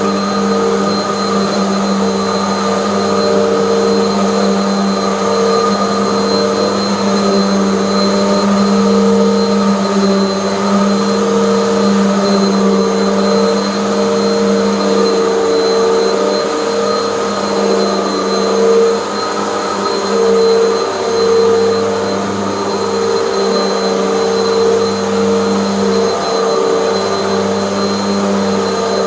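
Hoover bagless vacuum cleaner running steadily on carpet, a constant motor hum with a thin high whine, dipping briefly about 19 seconds in.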